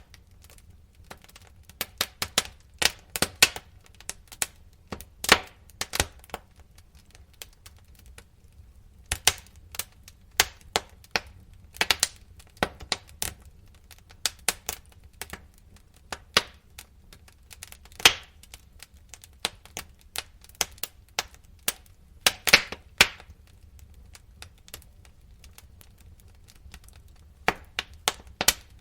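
Wood fire crackling, with irregular sharp pops and snaps of varying loudness over a faint low rumble.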